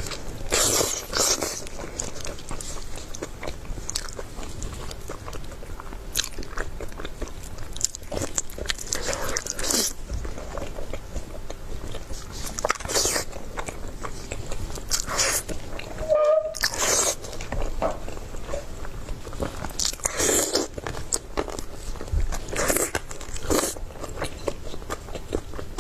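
A person biting and chewing food close to the microphone, with crunchy bites coming at irregular intervals every second or two.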